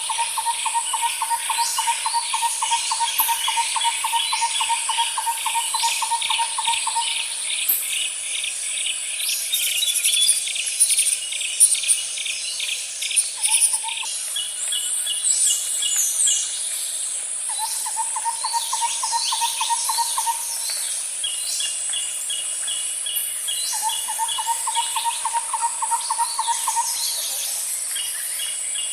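Natural ambience of birds chirping and trilling over a constant high-pitched insect drone. A lower, rapid pulsing trill recurs in bouts of a few seconds at a time.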